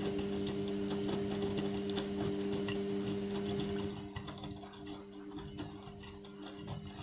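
Indesit washing machine running a sudsy rinse on a full load of synthetics: a steady motor hum with light ticking as the drum turns. The sound drops in level about four seconds in.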